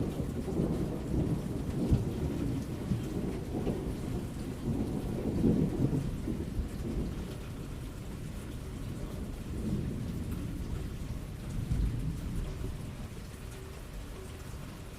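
Thunder rumbling over steady falling rain. One long rolling rumble runs through the first half, and a second one swells and fades about two thirds of the way in.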